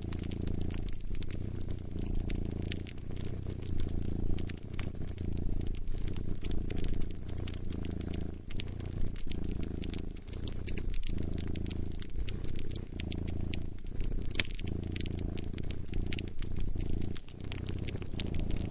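A cat purring close up, its low rumble rising and falling with each breath about once every second and a half, over a wood fire's irregular sharp crackles and pops.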